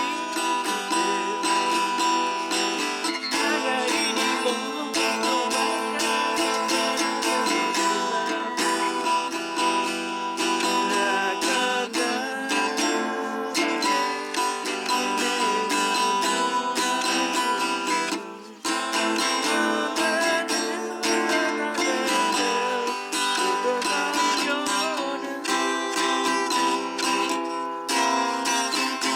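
Acoustic guitar being strummed, playing a song.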